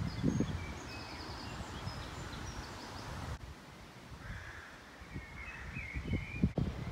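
Outdoor background noise with small birds chirping several times, higher calls in the first two seconds and a lower run of chirps around the fifth and sixth seconds. Low thumps near the start and again shortly before the end.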